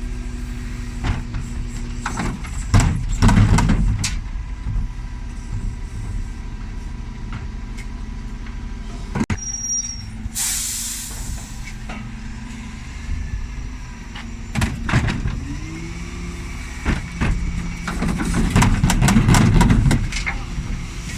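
Dennis Elite 6 bin lorry's engine running, getting louder about three seconds in and again near the end. About ten seconds in comes a second-long burst of hiss from its air brakes.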